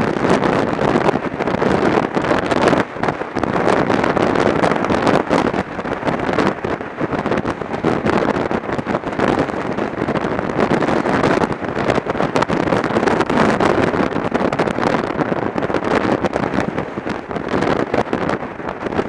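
Wind buffeting the microphone of a camera on a moving motorcycle, a loud, steady rush that surges and dips, with the bike's running noise underneath.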